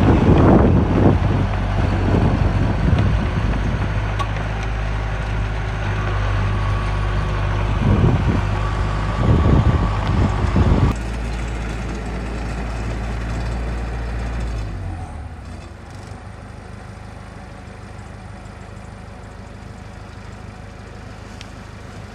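Heavy-equipment diesel engine running with a few louder surges of revving. It drops back at about the halfway mark, and a few seconds later the engine hum stops, leaving only quieter background noise.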